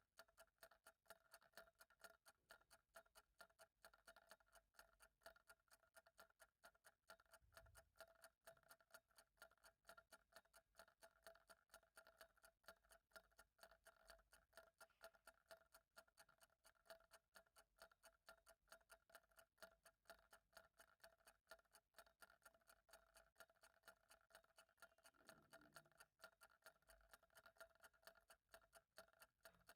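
Faint, steady, evenly spaced ticking of a clock.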